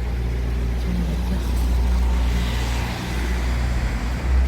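A car running on the road: a steady low rumble of engine and road noise.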